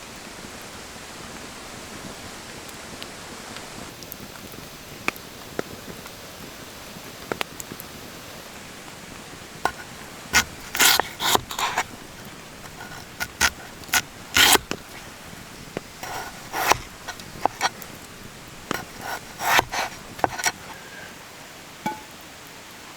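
Steady hiss of rain, with a run of sharp scrapes and knocks from about ten seconds in until about twenty seconds in.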